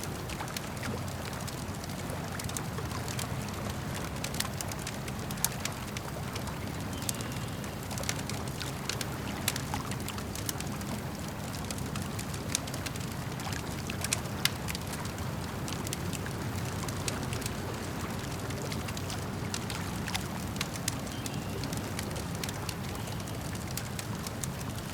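Campfire crackling with frequent sharp irregular pops and snaps over a steady low rumble of burning wood and lapping lake water.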